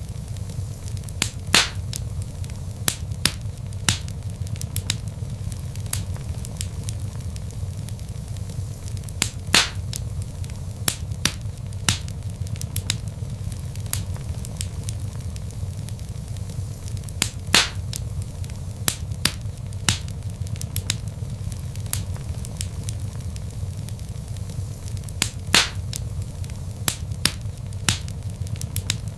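Wood fire crackling: a steady low rumble of flames under scattered small crackles, with a louder pop about every eight seconds.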